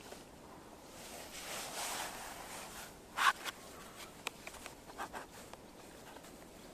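Rustling and handling noises with a string of short, sharp clicks and scrapes, the loudest about three seconds in.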